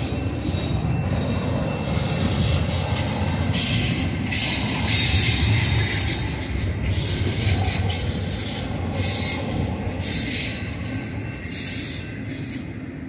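Double-stack container cars of a BNSF freight train rolling past: a steady low rumble of wheels on rail, with high-pitched wheel squeal coming and going. The sound fades near the end as the last car goes by.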